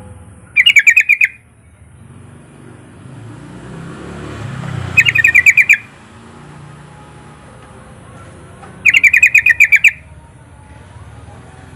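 Yellow-vented bulbul singing: three short, bubbling phrases of rapid repeated notes, each under a second long and about four seconds apart.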